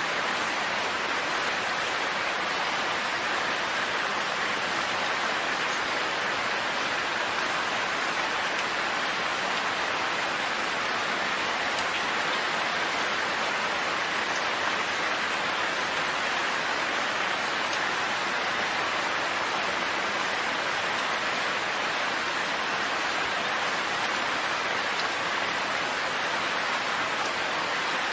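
Steady rain falling: an even, unchanging hiss of water with no thunder.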